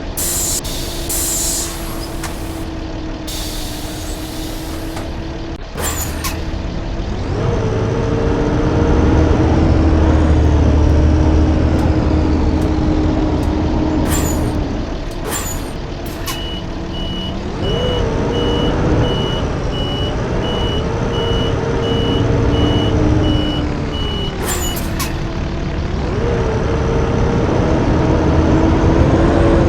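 Blue Bird D3FE school bus on the move: its diesel engine pulls up in pitch and drops back several times as it works through the gears. Sharp air-brake hisses come near the start and again now and then. A steady run of beeps sounds for several seconds past the middle.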